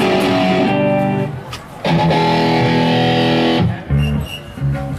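Live electric guitar through an amplifier, letting a chord ring out, a short break, then a second long held chord, followed by a few short low notes near the end.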